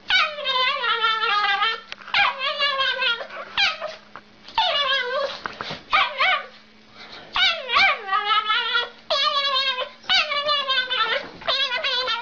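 A dog making a run of high, wavering whining calls, each about a second long with short gaps between, the pitch bending up and down within each call.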